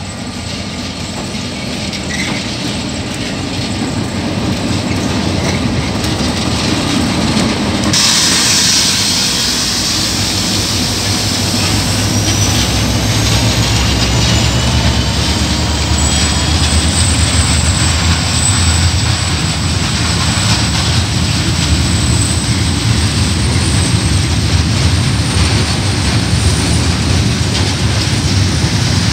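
A KiwiRail diesel-hauled coal train passing close by. The locomotive grows steadily louder, then comes past suddenly about eight seconds in. After that a long string of coal wagons rolls by, wheels clacking over the rail joints, with a high, thin wheel squeal.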